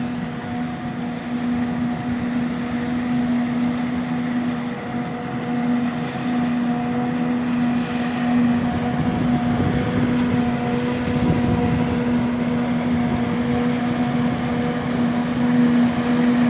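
Claas Jaguar 870 self-propelled forage harvester running steadily. It makes a constant hum at one unchanging pitch over a steady mechanical rush.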